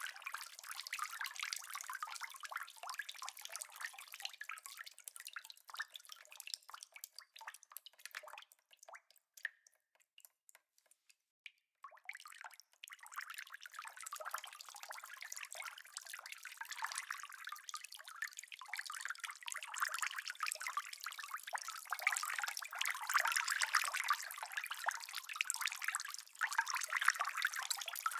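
Rain pattering and dripping in a dense patter of small drops. About seven seconds in it thins to a few scattered drips and nearly stops; about twelve seconds in it comes back and grows denser.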